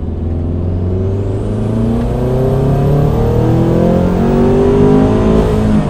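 Turbocharged Subaru BRZ's flat-four engine on a full-throttle second-gear pull from about 2800 toward 6800 rpm, heard from inside the cabin. Its note climbs steadily in pitch and gets louder, then drops near the end as the pull finishes.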